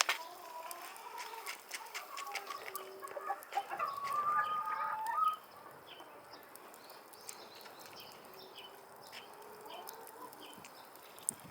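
Chickens clucking and calling, louder for the first five seconds with a drawn-out call around four seconds in, then quieter with faint high chirps and scattered clicks.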